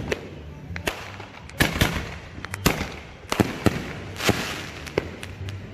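Fireworks going off: a string of about eight sharp bangs at uneven intervals, some followed by a brief crackle.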